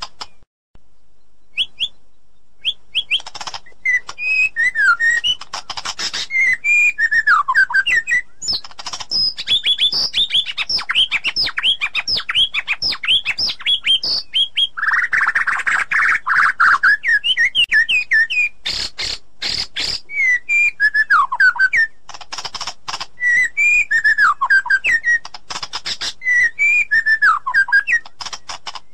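White-rumped shama singing a loud, varied song of gliding whistles and rapid high note runs, mixed with sharp clicking notes and a harsh chattering phrase about halfway through. The song starts about two seconds in, after a brief gap.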